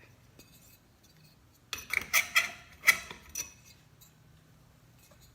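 Glass light globe clinking against the metal globe holder of a ceiling fan light kit while it is being fitted: a quick cluster of about five sharp, ringing clinks about two seconds in.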